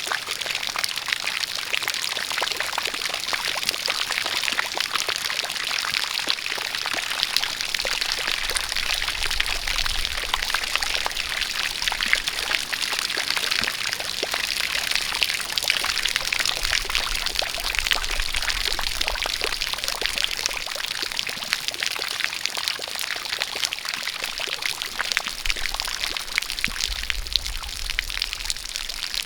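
A steady jet of water pouring and splashing, thick with fine drop ticks, amid falling rain.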